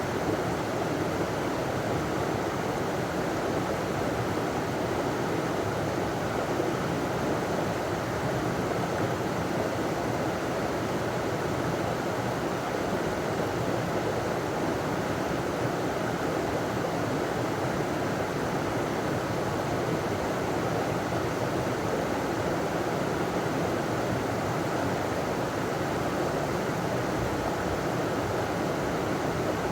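River water running over a small waterfall: a steady rushing that holds even throughout.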